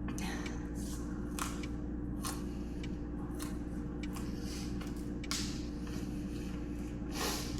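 A person chewing crunchy food close to the microphone, irregular short crunches, over a steady low hum.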